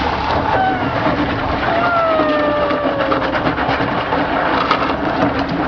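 Rushing, splashing water over a steady engine hum, with a long falling voice call about two seconds in.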